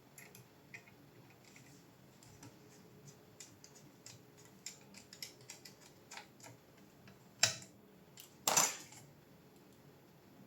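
Light clicks and small metallic clinks of small parts and tools being handled, with two louder clacks near the end, the second a longer rattling scrape.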